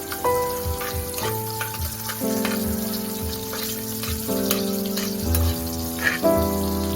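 Food sizzling and crackling as it fries in hot oil in a pan, over background music whose notes change about once a second.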